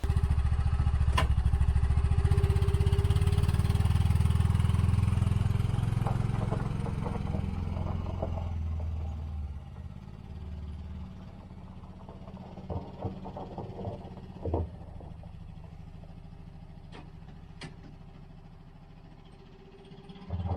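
A combine's engine running with a low, evenly pulsing rumble that begins abruptly, then fades and drops away after about nine seconds, leaving a few scattered knocks over a faint steady background.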